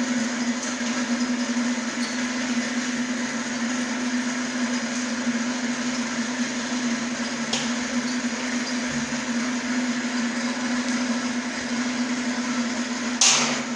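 Machinery running steadily, a motor hum on one constant tone over an even hiss, with a sharp clack near the end.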